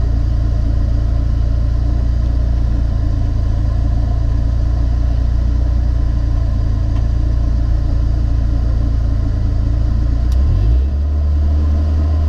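BMW 318ti rally car's engine, heard from inside the stripped cabin, running steadily at idle while the car waits at the stage start. About ten and a half seconds in, the revs change and are then held steady at the new pitch.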